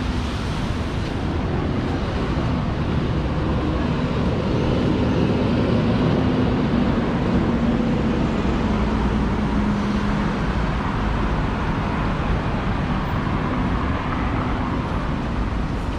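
Wind buffeting the microphone over street traffic, with a vehicle passing: its engine hum swells toward the middle, dips slightly in pitch and fades.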